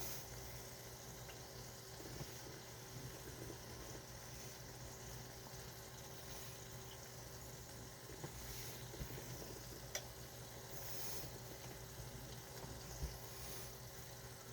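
Faint, steady sizzling and bubbling of meatballs frying slowly in a pan on the stove, with a few small ticks.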